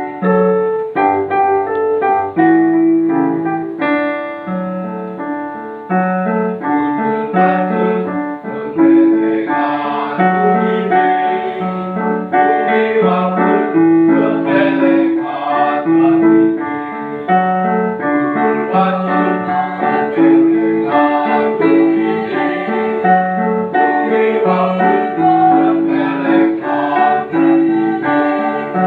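Piano accompaniment starting up after a pause, playing a steady run of chords and melody notes, with choir voices joining in partway through.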